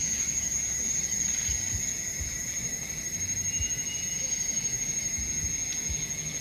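Steady high-pitched drone of insects in the forest, with a fainter lower band, and a few soft low thumps.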